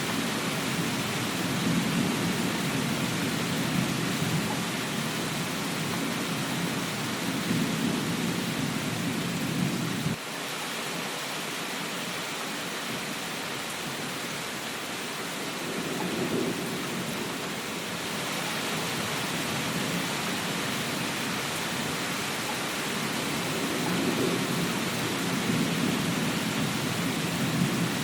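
Steady heavy rain with low rolling thunder rumbling under it. The rumble cuts off abruptly about ten seconds in, swells back briefly a few seconds later, and builds again near the end.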